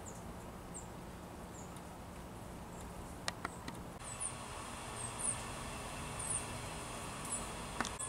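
Small birds chipping: short, high-pitched chirps, a few at first and then in quick clusters about once a second through the second half. A few sharp clicks come a little before halfway.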